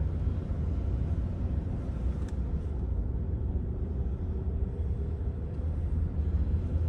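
Steady low rumble of a car's engine and tyres on the road, heard from inside the moving car, with one faint click about two seconds in.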